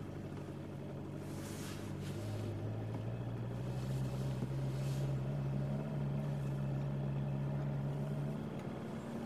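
Ferrari California T's twin-turbo V8 running at low revs, heard from inside the cabin, with the engine note rising a little about two and a half seconds in and easing back near the end.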